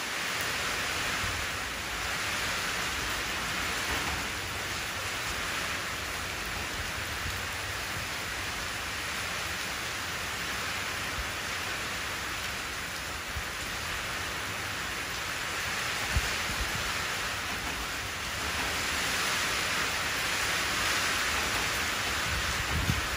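Steady rain falling into a shallow puddle, drops splashing on the water, swelling a little late on. A brief low thump about two-thirds of the way through and another right at the end stand out above it.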